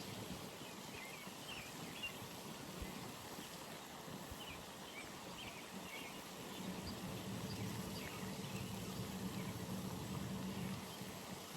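Outdoor pond ambience: a steady background hiss with scattered short, high bird chirps, and a low hum that swells about halfway through and cuts off near the end.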